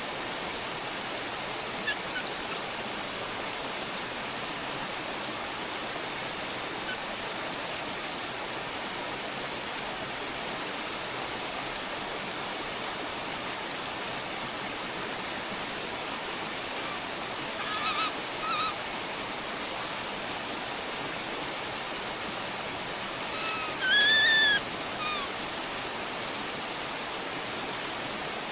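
A bird's short, harsh calls: a brief pair about two-thirds of the way in, then one louder, arching call a few seconds later, over a steady rushing background hiss.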